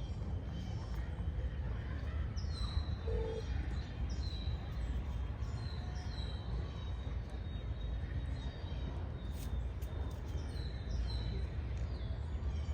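A songbird repeating a short, high, down-slurred call note over and over, roughly one a second, over a steady low rumble of city and park background.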